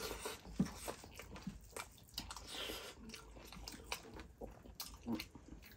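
Close-miked eating sounds of people eating chicken and rice by hand: soft, irregular chewing smacks and wet clicks.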